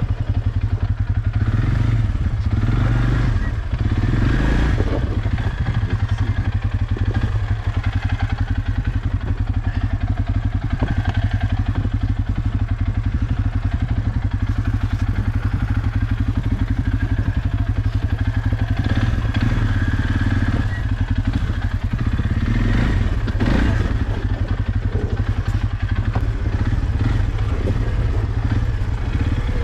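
Off-road vehicle engine running at low, fairly steady revs, with knocks and clatter from the machine working slowly over a rough trail.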